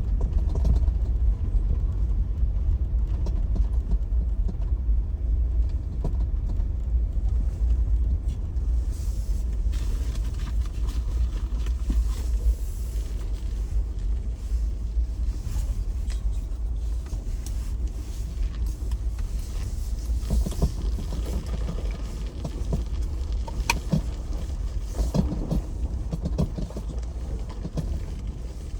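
Jeep driving, heard from inside the cabin: a steady low rumble of engine and road noise, with scattered knocks and crackles from about two-thirds of the way through as it rolls over the snowy, icy side road.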